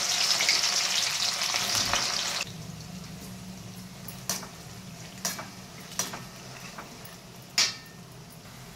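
Cut okra deep-frying in hot oil in a steel kadai: a loud sizzle that drops suddenly about two and a half seconds in to a quieter, steady bubbling. A metal spoon stirring the okra clinks against the pan a few times.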